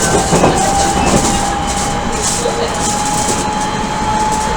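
Odakyu 1000 series electric train heard from inside the car while running. A steady electric whine from the Mitsubishi GTO-inverter traction equipment slowly rises in pitch as the train gains speed, over steady rolling noise, with a few wheel knocks in the first half second.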